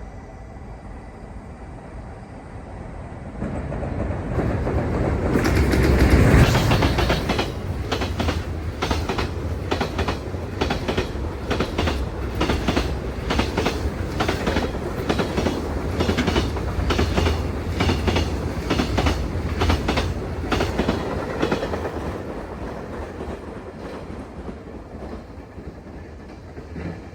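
A train passing. It builds up, then its wheels clatter in a steady clickety-clack over the rail joints for about fifteen seconds before fading away.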